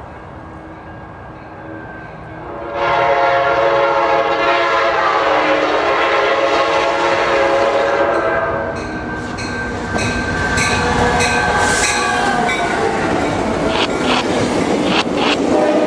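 Sounder commuter train's diesel locomotive sounding its chime air horn in one long blast starting about three seconds in. The train then rolls past, its wheels clattering over the rail joints with sharp clicks and a steady rumble.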